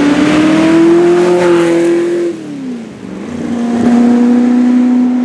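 Historic competition car engine accelerating hard up the hill, its note climbing, then dropping about two and a half seconds in before holding steady as the sound swells again.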